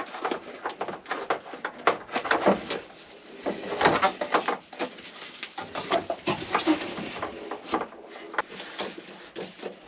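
A rubber water-cooling hose being worked into place in a jet ski hull: irregular knocks and clicks from the hose and fittings, with short squeaks of rubber on plastic.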